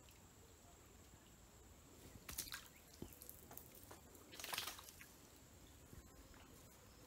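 Two brief small splashes on the river surface, about two seconds in and again about four and a half seconds in, with a faint tap between them.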